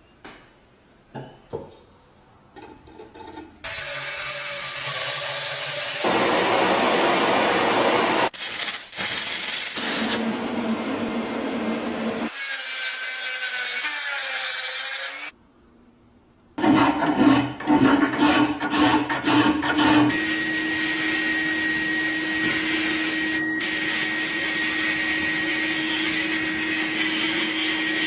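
Restoration work on a rusty hand-cranked grinder, cut together from several clips: long stretches of abrasive scraping and rubbing, a burst of rattling knocks, then a steady run of a tool with a held hum in the last third. It starts with a few faint clicks.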